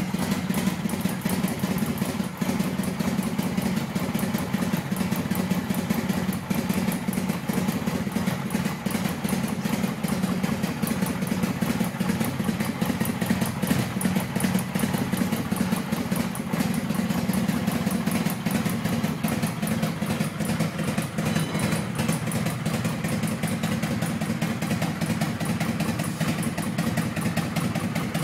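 Kawasaki VN800 Vulcan's V-twin engine idling steadily, with an even, unchanging beat and no revving.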